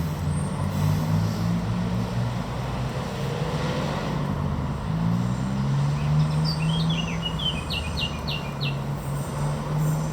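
A low mechanical drone whose pitch shifts up and down in steps, with a bird chirping a quick run of short notes about two-thirds of the way through.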